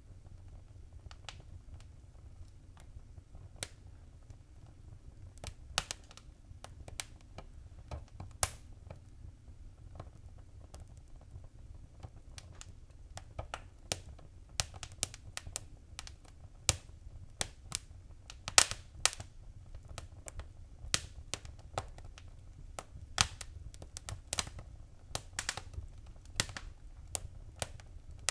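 Wood fire crackling in a fireplace: irregular sharp pops and snaps over a low, steady rumble, coming more often in the second half.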